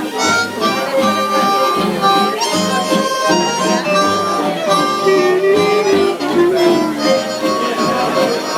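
Live band playing the instrumental opening of a tune: a woodwind lead melody over guitar and bass.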